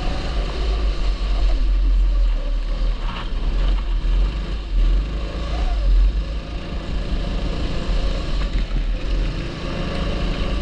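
A TB Kart 270cc kart engine running on track, its engine note faint over a heavy, steady low rumble.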